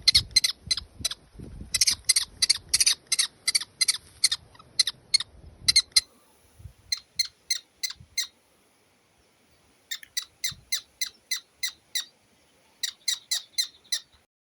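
A bird calling in rapid runs of short, sharp, high notes, about four or five a second, in several bouts with short pauses between them.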